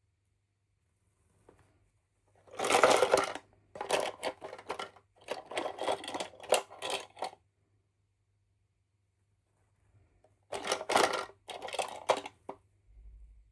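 Toy packaging being handled and opened: rustling and crinkling in two stretches of a few seconds each, with a pause between.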